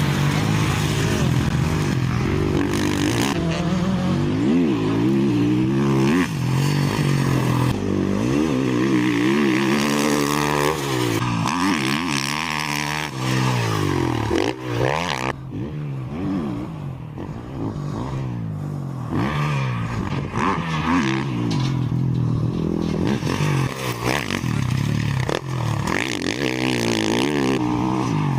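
Motocross dirt bike engine revving hard, its pitch rising and dropping again and again as it accelerates and backs off, a little quieter for a few seconds in the middle.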